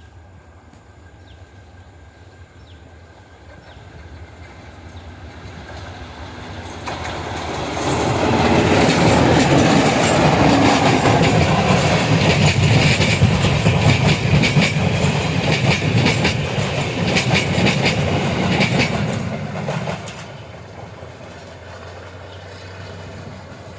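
Class W3 diesel locomotive and its coaches passing by. The rumble builds up, then the wheels clatter loudly over the rail joints for about twelve seconds. It drops away suddenly near the end.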